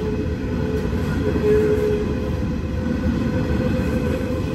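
Coal train of QR National hopper wagons rolling past, a steady rumble of wheels on rail with a held tone running through it.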